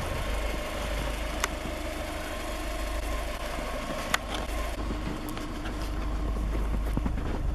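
2005 Subaru Forester XT's turbocharged flat-four engine idling steadily while the car sits in deep snow, with a sharp click about four seconds in.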